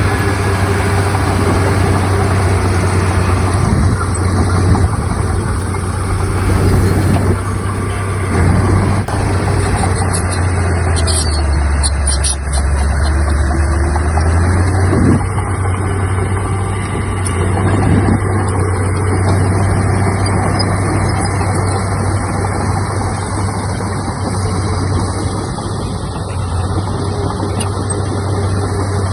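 Heavy diesel earthmoving machinery running steadily with a deep drone. About twelve seconds in, the drone briefly drops lower in pitch, then climbs back.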